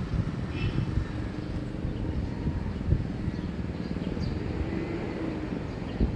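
Early-morning neighbourhood ambience: wind rumbling on the microphone, a faint distant engine hum, and a few faint bird chirps.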